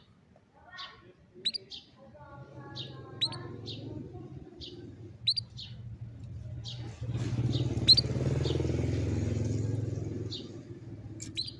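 Canary giving short, separate chirps and quick upward-sweeping notes rather than a continuous song. A low rumble builds underneath and is loudest from about seven to ten seconds in, then fades.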